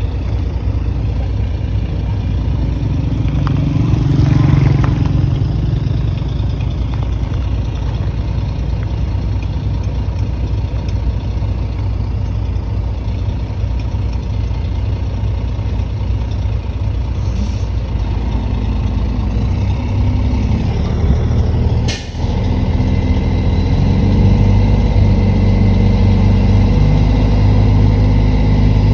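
Heavy diesel engine of earthmoving machinery running steadily, with a short sharp hiss about 22 seconds in. After the hiss the engine note rises and holds, as if the machine is working under load.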